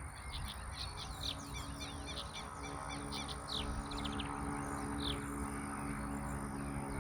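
Small birds chirping: many short, quick, high chirps, several calls overlapping. From about a second in, a steady low hum of a few held tones sits underneath.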